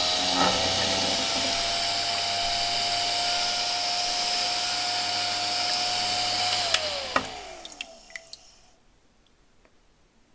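Cordless vacuum cleaner's motor running with a steady whine and hiss. About two-thirds of the way through there is a sharp click, and the motor winds down, its pitch falling until it stops, with a few light clicks after.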